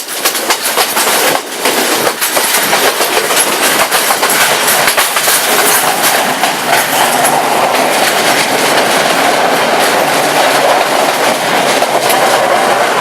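A Sri Lankan Railways passenger train running on the track, wheels clattering over the rails. Sharp clicks come thick in the first half, then give way to a steadier rumble.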